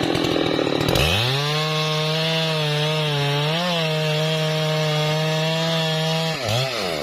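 Husqvarna 3120 XP two-stroke chainsaw cutting a trembesi log. It bogs in the wood for about the first second, then runs at a steady high pitch for about five seconds. Near the end the revs dip briefly and climb again as it bites back into the cut.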